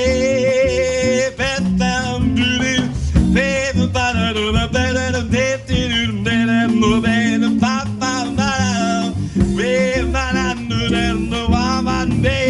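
Small jazz band playing live: plucked guitar, double bass and drums under a lead melody line that bends and wavers in pitch.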